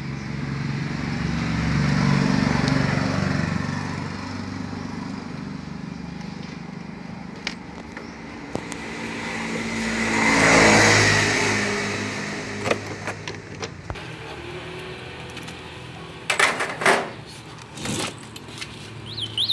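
Motor vehicles passing by, each rising and then fading; the louder pass comes about halfway through. A few sharp knocks follow near the end.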